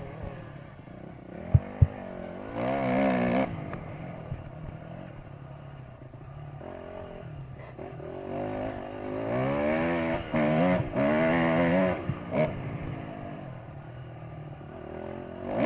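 Dirt bike engine revving up and down in several bursts between steadier running. Two sharp knocks about a second and a half in are the loudest sounds.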